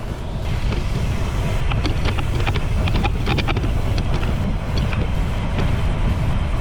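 Heavy wind buffeting the microphone of a bicycle rider coasting fast downhill, a dense low rumble, with scattered sharp ticks and clicks through the middle.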